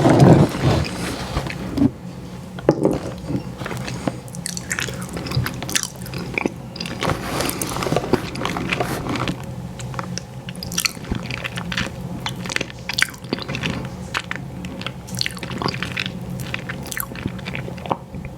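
Close-miked eating of an ice cream sandwich: irregular bites, chewing and wet mouth clicks, loudest in the first second. A faint steady hum sits underneath.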